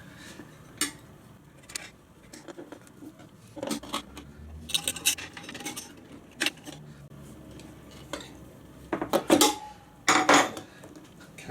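Metal tyre-changing tools clinking and scraping against a motorcycle wheel rim as the tyre bead is worked onto the rim, with a few louder clanks near the end, one of them ringing briefly.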